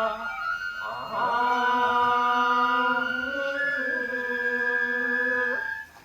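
Voices chanting the nenbutsu kenbai dance song in long held notes, with a high thin tone held over the chant for about two seconds in the second half. The chant breaks off suddenly near the end.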